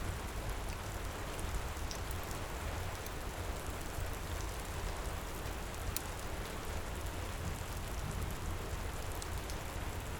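Steady heavy rain with a deep rumble underneath, and the odd sharp crackle of a wood fire in a fireplace.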